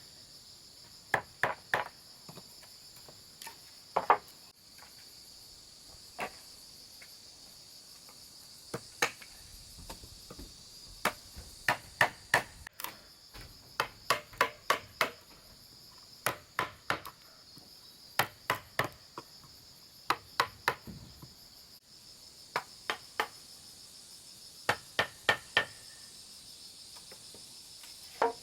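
Hammer blows on wood, coming in short runs of two to four quick strikes with pauses between. Insects chirr steadily and high-pitched underneath.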